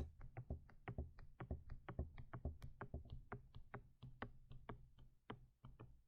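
Faint, rapid tapping of a stylus on a drawing tablet, about five short clicks a second, as strokes are drawn.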